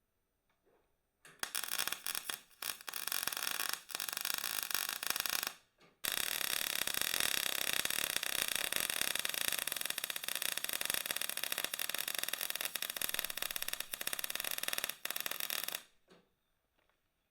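Power tool working steel plate with a loud, harsh noise: a few short runs, then one steady run of about ten seconds that cuts off.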